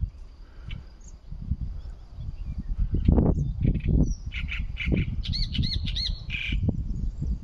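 A songbird calling in the second half: a quick series of short, repeated, arched high notes ending in a harsher note. A loud, uneven low rumble runs underneath.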